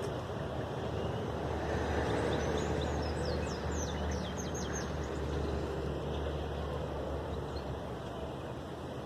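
Steady low outdoor rumble with a small bird giving a quick series of short, high chirps about three to four seconds in.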